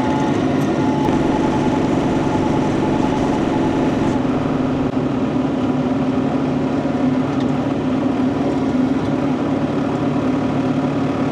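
Diesel engine of a Bobcat E42 mini excavator running steadily under the operator while a log is handled.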